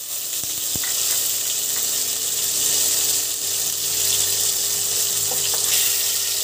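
Turmeric-coated banana stem slices frying in hot mustard oil, a steady sizzling hiss.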